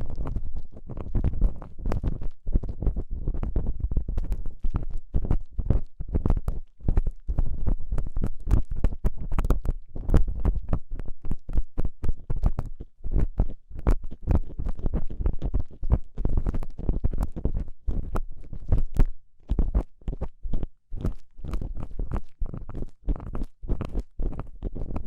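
Ear-cleaning tool scraping and rubbing in a microphone's ear, in the manner of ear-cleaning ASMR: a dense, irregular run of short scratchy strokes, several a second, each with a low rumbling contact sound.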